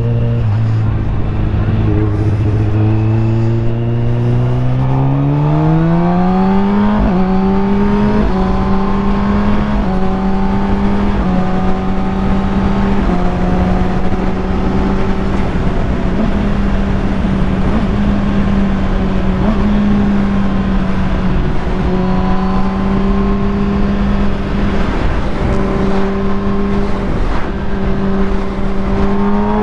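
Kawasaki ZX-10R inline-four engine through a full Akrapovic titanium exhaust, running steady at low revs, then climbing in revs over a few seconds and holding a higher, steady note while riding, with a noise of wind and road underneath. The revs start climbing again right at the end.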